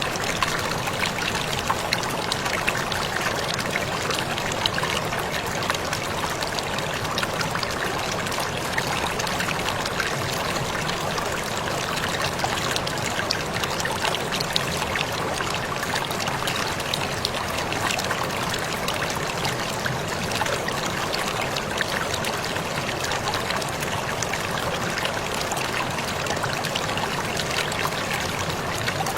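Waterfall water falling and splashing in a steady, unbroken rush with small irregular splashes.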